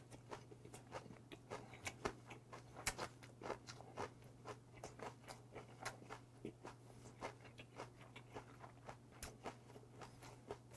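A person chewing a mouthful close to the microphone: faint, irregular soft crunches and wet mouth clicks, several a second.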